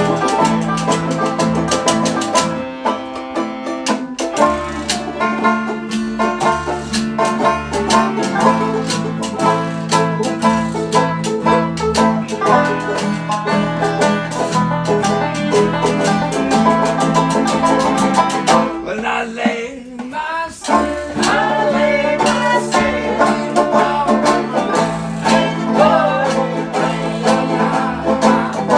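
A string band playing a bluegrass-style tune, with picked banjo and guitar, dipping briefly about two-thirds of the way through.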